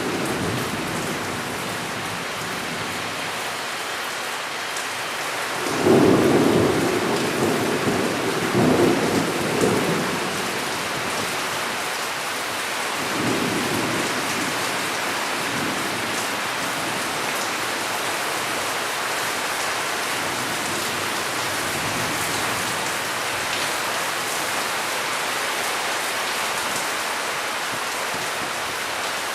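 Steady heavy rain with thunder rumbling: a loud peal about six seconds in that rolls on for several seconds, then fainter rumbles a few seconds later.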